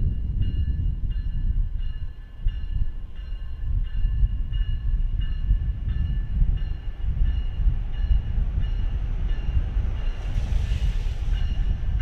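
Railcam audio of an approaching Metra commuter train: a steady low rumble, with a high ringing tone that repeats about one and a half times a second, and a burst of hiss near the end.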